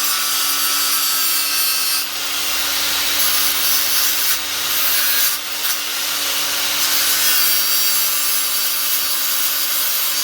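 Grinder running steadily with a constant motor whine, sanding the paintwork off a metal scooter part to bare metal ready for welding.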